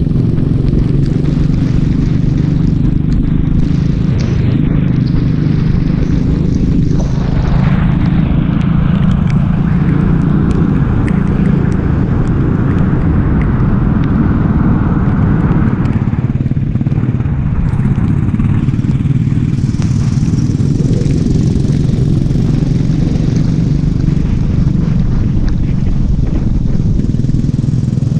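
Racing go-kart engine running continuously at a steady, loud level.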